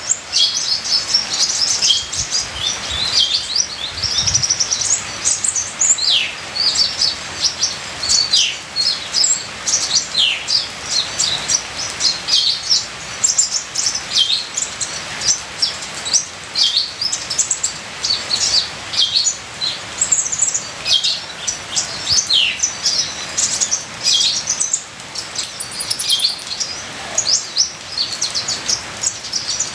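Kolibri ninja sunbird singing a fast, busy string of high chirps, trills and short falling notes, over a steady trickle of water.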